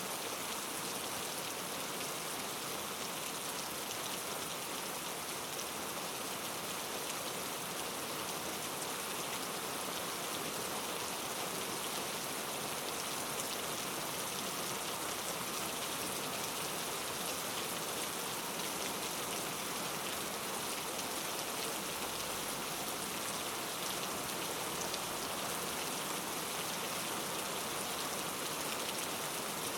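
Steady rain falling, a dense even hiss of drops pattering on a surface with many fine drop ticks and no thunder.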